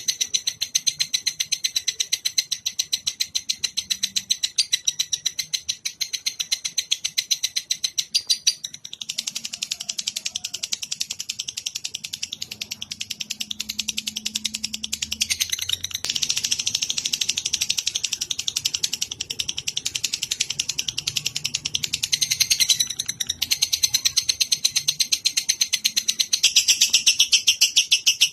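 A songbird's rapid chattering song on a masteran recording: an unbroken run of high chirps, about seven or eight a second, changing phrase every few seconds.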